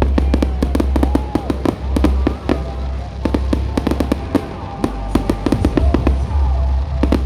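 Fireworks display: a dense run of rapid crackling pops and bangs from bursting shells, over music with a heavy bass.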